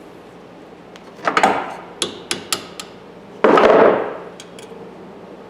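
Hammer tapping a pin punch to drive a pin out of a ratchet head: a few sharp metallic taps, then a louder, longer clatter about three and a half seconds in.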